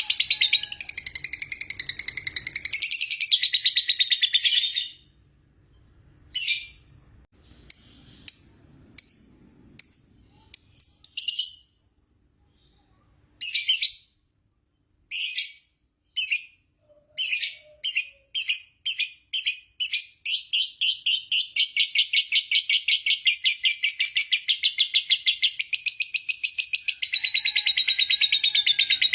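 Lovebird ngekek: a long, rapid, high-pitched chattering trill. It breaks off about five seconds in into short separate bursts, then builds back into a fast unbroken run from about twenty seconds in.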